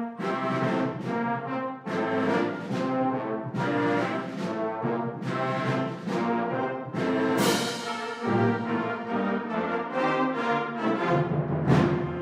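Wind ensemble playing a Christmas piece, brass to the fore, with accented chords about once a second and a loud stroke near the end.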